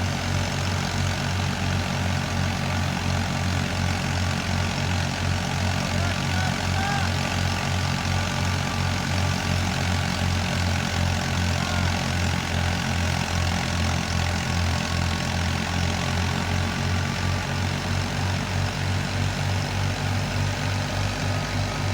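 Fiat 480 tractor's diesel engine running steadily with a fast low throb, powering a wheat thresher.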